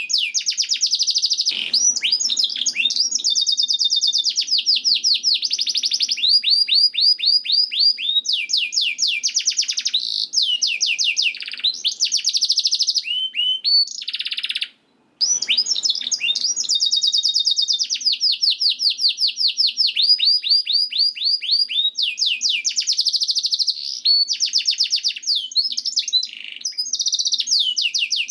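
Domestic canary singing a long, continuous song of fast trills and rolls, with a brief break about halfway through.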